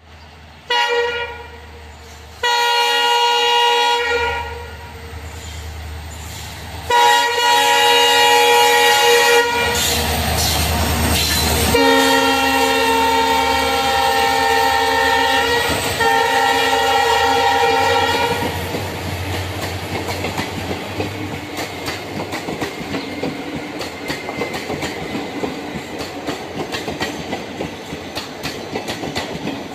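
Rail car's horn sounding in a series of long blasts, then the wheels clattering over the rail joints as it runs on.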